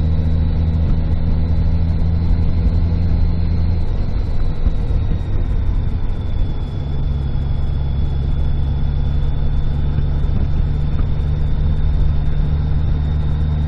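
Car engine and road noise while driving: a steady low hum whose engine note changes about four seconds in and settles again a couple of seconds later.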